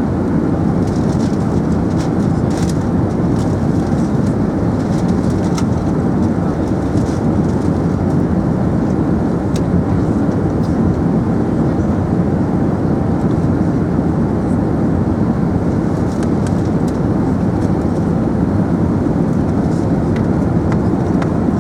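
Steady low rumble of an Emirates Airbus A380 heard from inside the passenger cabin, with faint scattered ticks and rattles.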